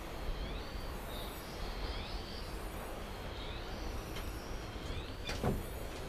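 Forest birds calling with short rising whistles, several a second, over a steady low rumble; a sharp knock or two about five seconds in.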